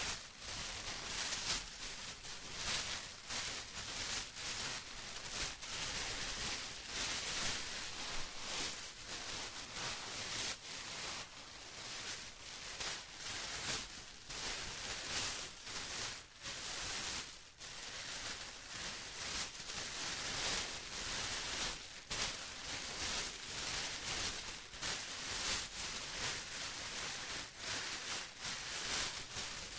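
Plastic being rustled and crumpled by hand: a continuous, irregular crinkling made of many sharp little crackles, with brief lulls now and then.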